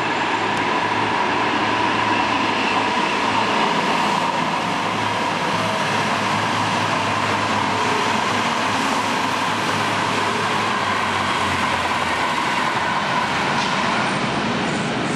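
Trains running past on the tracks: a steady rolling noise with a faint, even whine.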